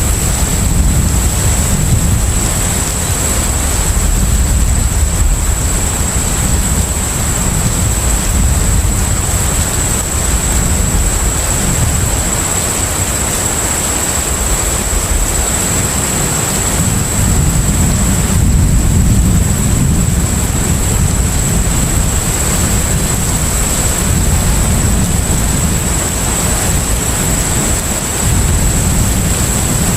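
Container ship at sea: a steady low engine rumble under a wash of sea and wind noise, swelling and easing slightly, with a thin steady high whine.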